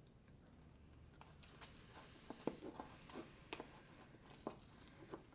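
Faint, irregular clicks and taps of a utensil stirring shaving-cream slime in a small bowl as the saline solution is mixed in.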